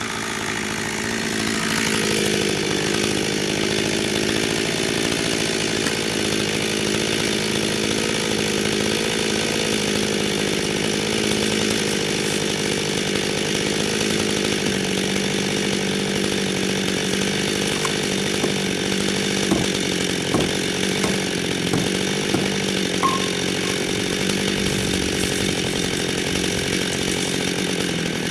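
Chainsaw running steadily at high revs, its pitch dropping a little about halfway through, with a few sharp ticks later on.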